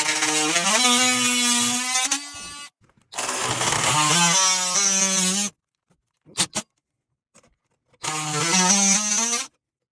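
Handheld power tool motor, like a drill, run in three bursts, each spinning up quickly and then holding a steady whine, with a short click in the pause between the second and third.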